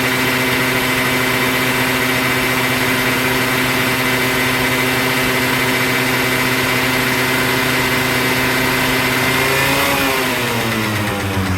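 Honda Live Dio AF35 scooter's 50cc two-stroke single-cylinder engine running at a steady, slightly raised speed. Near the end the revs drop back toward idle.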